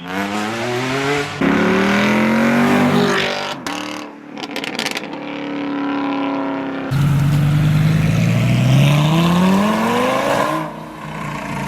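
Cars accelerating hard one after another, their engine notes climbing in pitch through the gears. A louder one starts about seven seconds in and rises steadily for about four seconds.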